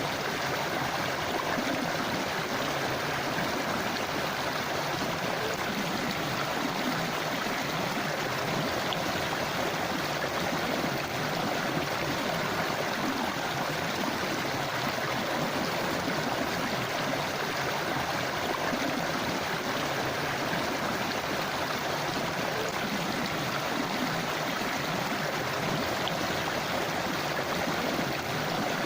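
A forest river or stream flowing over rocks: steady rushing and gurgling water.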